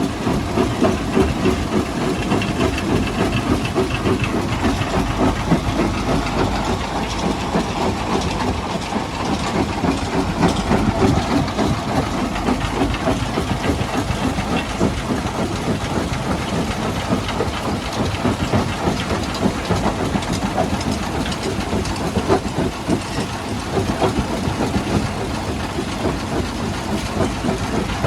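Heavy stone-crushing machinery running steadily, with a dense, continuous clatter of rock over a low rumble.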